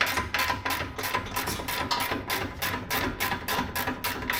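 Power tool tightening exhaust clamp nuts, hammering in a fast even rattle of about seven strokes a second over a steady whine.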